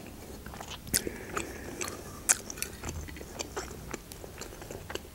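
Close-miked eating sounds: a person chewing a mouthful of borscht, with a string of sharp mouth clicks, the loudest about a second in and just past two seconds.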